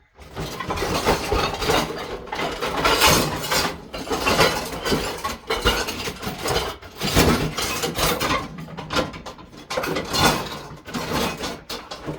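Dishwashing at a kitchen sink: dishes, pots and utensils clattering and clinking as they are handled and scrubbed, in continuous dense noise with many sharp knocks.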